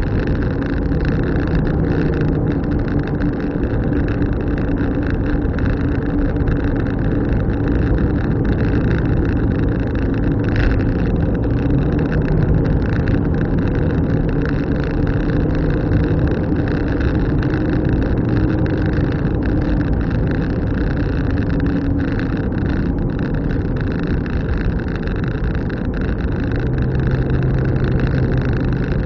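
A car driving along, with steady engine and road noise. The engine note shifts up and down a little as the speed changes.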